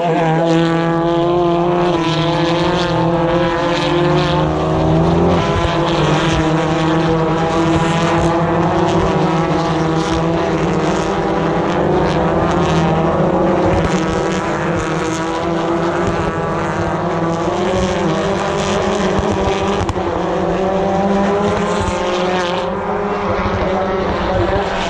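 A field of BTCC touring cars, turbocharged two-litre four-cylinder race engines, racing past one after another at high revs. Several engines overlap, their pitch rising and falling as cars come by and change gear.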